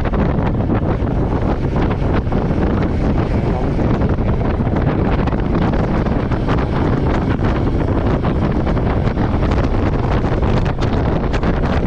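Wind rushing over the microphone of a camera on a moving motorcycle, steady and heavy in the low end, with the Royal Enfield Meteor 350's single-cylinder engine running underneath.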